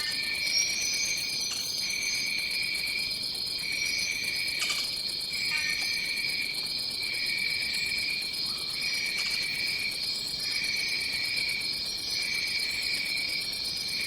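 Tropical rainforest insect chorus: a steady high drone, a pulsing chirp repeating roughly once a second, and a fast, very high trill over it.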